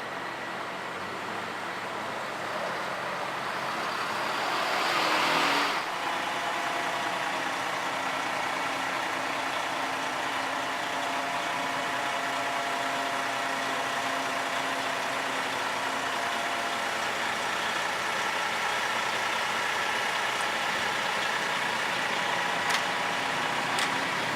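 An engine running steadily, with a hum of several steady tones. A rush of noise builds over the first five seconds or so and cuts off abruptly about six seconds in.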